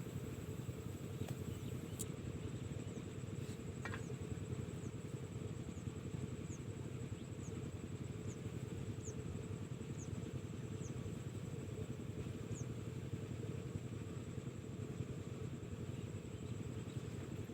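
Diesel engine driving a well water pump, running steadily at an even speed. Faint short high chirps repeat about once a second through the first part, over a steady high whine.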